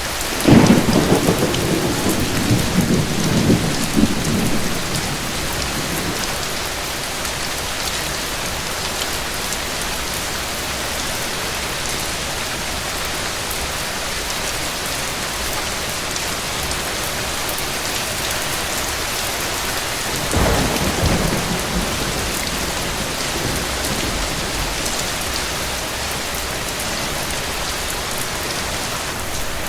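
Steady rain falling, with thunder rumbling twice: a loud roll starting about half a second in and fading over several seconds, and a weaker one about twenty seconds in.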